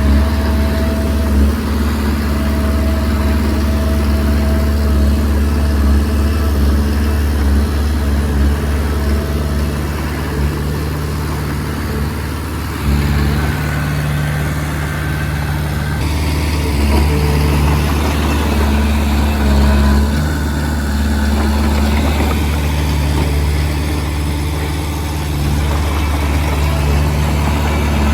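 Diesel engine of a Komatsu D20P small crawler bulldozer running steadily under working load. Its note shifts as load changes, with a brief dip about halfway through.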